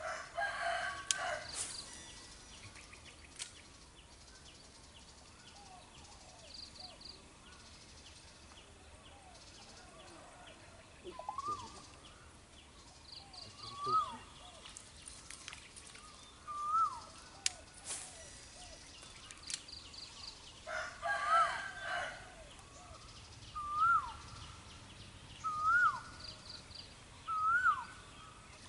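Birds calling: one repeats a short note that rises then drops sharply, about every two seconds, and a longer, louder call comes near the start and again about two-thirds of the way through, with faint quick high ticking behind.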